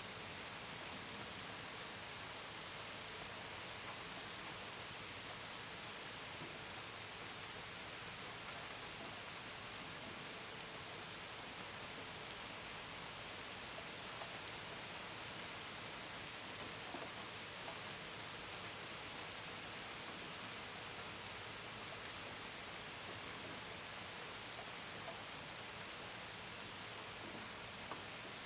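Steady gentle rain, with drops pattering on a window and gutters. Crickets trill in a continuous high-pitched band over it.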